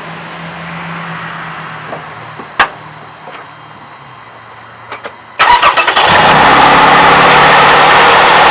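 Cold start of a 2007 Toyota 3.5-litre V6. A sharp click comes about two and a half seconds in. About five seconds in, the starter cranks briefly and the engine catches, then runs loud and steady. This is the first moment of a cold start, when the valve timing advance mechanism on these engines is known to clack.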